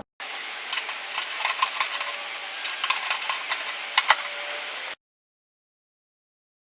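Irregular metallic clinks and rattles of tools and hardware while the belt cover on a two-stage snow blower is being taken off. About five seconds in, the sound cuts out to total silence.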